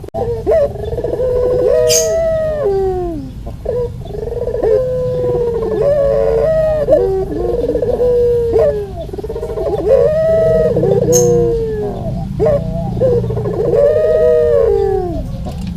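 Puter (ringneck dove, puter pelung type) cooing in repeated rolling calls, about five bouts with calls overlapping as if two birds answer each other. Two sharp clicks, near 2 s and 11 s, and a steady low rumble underneath.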